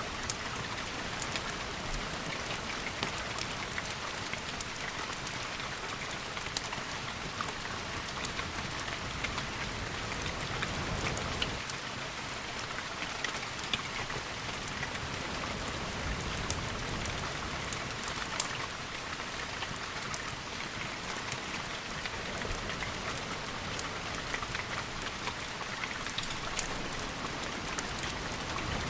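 Steady heavy rain, an even hiss dotted with many scattered sharp ticks, with a slight low swell about eleven seconds in.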